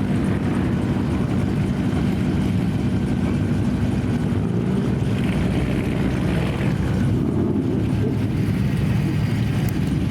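Car engine running at a steady idle, a low even rumble with no revving.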